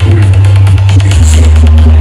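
Loud electronic dance music played through a carnival sound system's stack of 12 subwoofers, dominated by a heavy, sustained bass.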